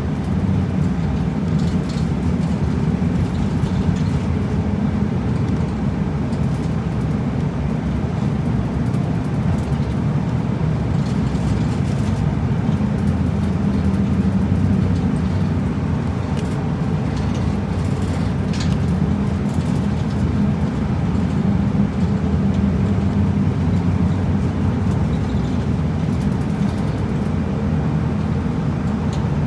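Route bus driving along the road, heard from inside the cabin: a steady low engine hum with road noise, and a few light rattles about halfway through.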